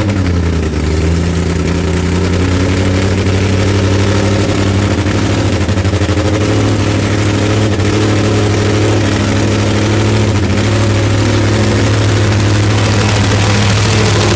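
Supercharged, nitro-burning inline four-cylinder engine of a Top Fuel drag motorcycle idling loudly and steadily at one even pitch.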